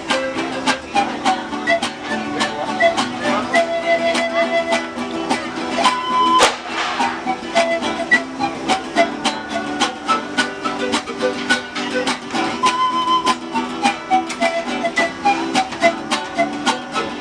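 Music on plucked string instruments, strummed in a quick, even rhythm with a melody of held notes over it. There is a single sharp click about six seconds in.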